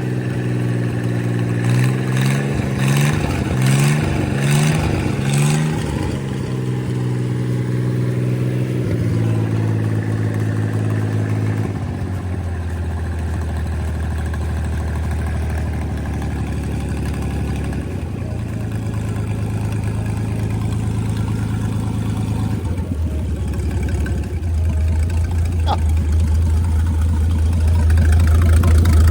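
Freshly overhauled Chris-Craft Model W six-cylinder marine engine, a marinized Hercules, running on a test run. It is blipped up and down about four times a couple of seconds in, then runs steadily, dropping to a lower speed about twelve seconds in. It runs without trouble: "so far, so good."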